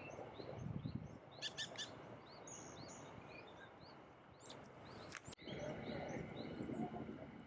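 Wild birds calling: a steady run of short, high chirps repeating throughout, with a louder cluster of higher calls about a second and a half in, over a low background rumble. A few sharp clicks come about five seconds in.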